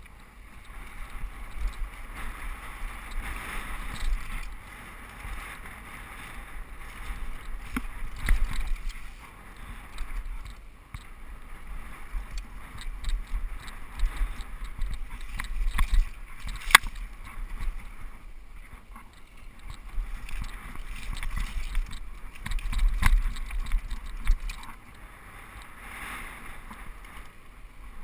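Mountain bike riding down a dirt trail: tyres rolling and rattling over dirt and rocks, with sharp clacks from the bike, the loudest about two-thirds of the way through. Wind rumbles on the microphone throughout.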